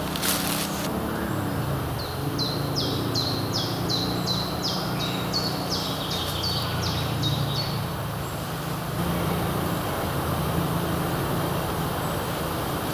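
A songbird sings a long run of quick, repeated high notes, each sliding downward, for about six seconds, over a steady low hum of distant engine noise. A brief crackle at the very start, like dry twigs snapping underfoot.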